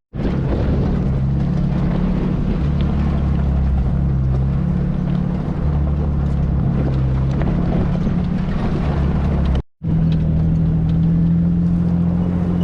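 Off-road 4x4 engine running steadily while driving, a low drone with rumbling road noise. The sound cuts out for an instant about ten seconds in, then carries on.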